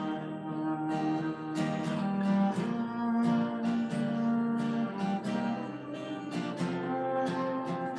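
Instrumental music on a strummed and picked guitar, with chords struck every second or so over sustained notes.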